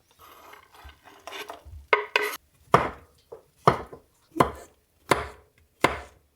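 Knife chopping food on a cutting board: soft handling and scraping at first, then a steady run of sharp chops, about seven of them at roughly one every two-thirds of a second.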